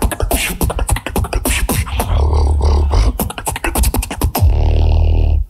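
A solo beatboxer performing a fast, dense pattern of vocal kicks, snares and hi-hat clicks, with long sustained deep bass tones, and stopping abruptly at the end.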